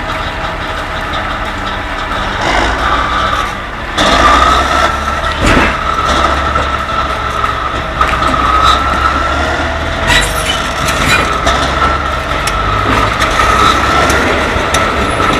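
Heavy vehicle engine running under load, with a steady high whine over a low rumble; the sound jumps louder about four seconds in, and there are a few short knocks.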